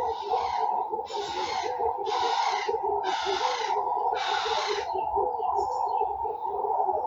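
Garden birds calling: a harsh, hissy call repeated about once a second, five times, stopping about five seconds in, over steady lower-pitched warbling calls.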